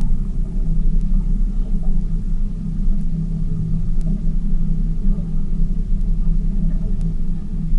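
Tour boat's engine running at a steady speed, a low, even drone with a constant hum.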